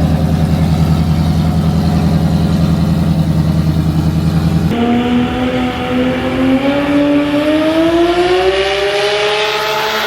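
Loud car engine running with a rough, pulsing low rumble, which abruptly gives way about halfway through to an engine accelerating, its pitch climbing steadily for several seconds before falling off near the end.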